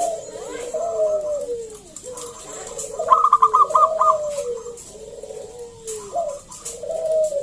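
Zebra doves (perkutut) cooing: a string of repeated falling coos, with a quick run of five higher notes about three seconds in.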